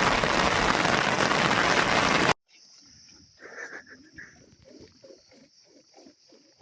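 A loud, even rushing noise cuts off abruptly a little over two seconds in. After it come a faint steady high hiss and a quick run of short, low animal calls, about two to three a second.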